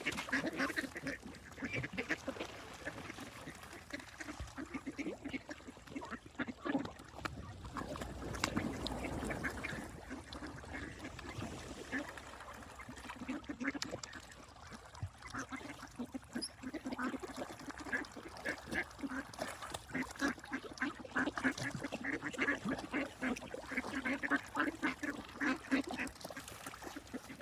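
Ducks quacking: many short calls overlapping in quick runs, busiest in the second half.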